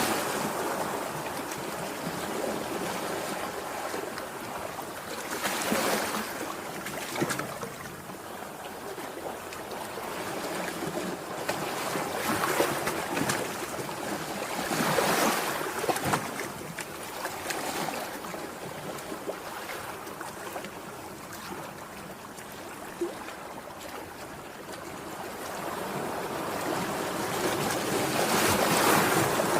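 Sea waves washing onto the shore, a steady rush that swells and falls every few seconds, loudest near the end.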